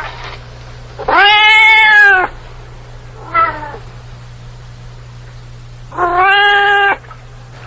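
Domestic cat meowing: a long drawn-out meow about a second in, a short one in the middle, and another long meow near the end.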